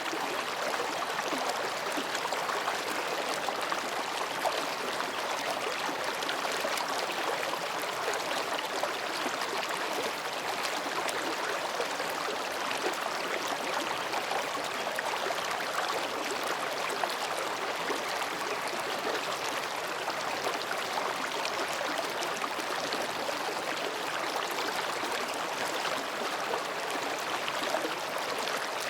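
Mountain stream flowing between rocks: a steady, unbroken babbling of water.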